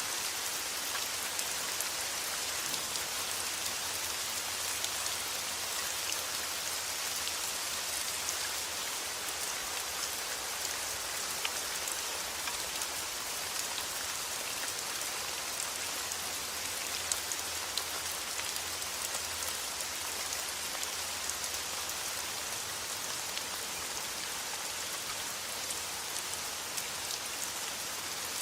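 Steady rain: an even hiss with scattered drops ticking through it.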